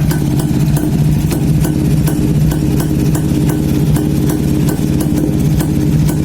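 A 1971 Jawa motorcycle's two-stroke engine idling steadily.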